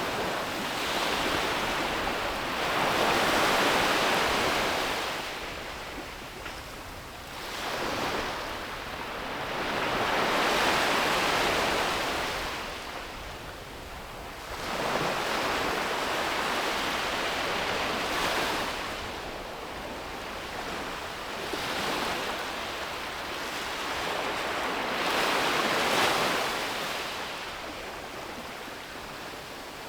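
Sea waves breaking on the shore and washing back, a rushing sound that swells and fades in slow surges, about four times.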